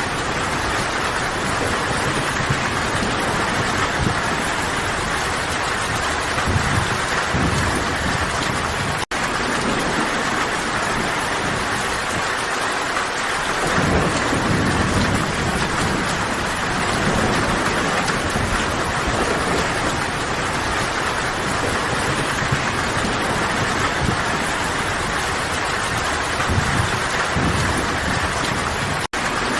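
Steady heavy rain falling, an even hiss with low rumbling swells now and then. The sound drops out for an instant twice, about nine seconds in and near the end.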